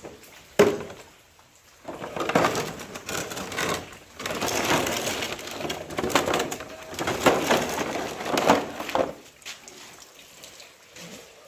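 A sharp knock, then about seven seconds of dense, irregular crackling noise that stops abruptly.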